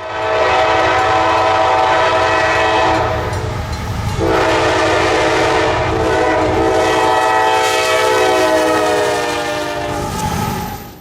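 Locomotive multi-chime air horn sounding a long chord of several tones over the low rumble of the train. It breaks off briefly about four seconds in, then sounds again and fades near the end.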